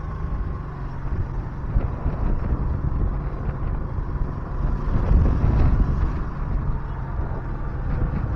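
A motorbike engine running while riding, with wind buffeting the action camera's microphone.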